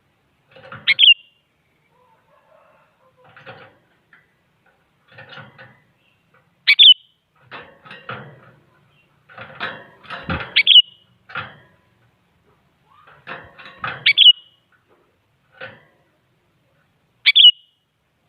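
Sooty-headed bulbul calling: five short, loud, bright notes spaced about three to four seconds apart, with fainter scratchy sounds between them.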